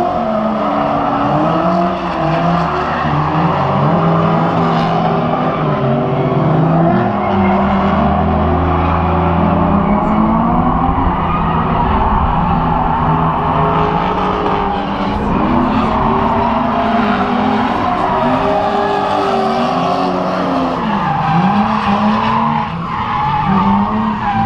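A car engine revving hard and unevenly, its pitch rising and falling again and again, with tyres squealing in a long drift. It cuts off suddenly at the end.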